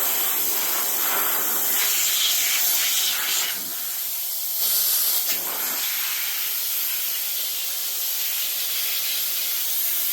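Electric air duster blowing a steady rush of air with a high motor whine, clearing dust out of a computer; the air noise dips briefly and then rises again around the middle.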